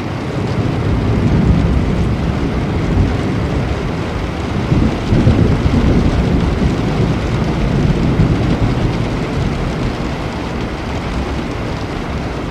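Steady rain with thunder rumbling low, swelling about a second in and again more strongly around five seconds in before fading back.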